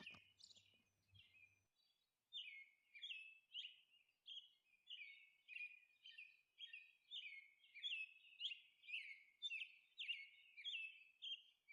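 Faint bird chirping: many short chirps that sweep downward in pitch, about two to three a second, growing busier after the first couple of seconds.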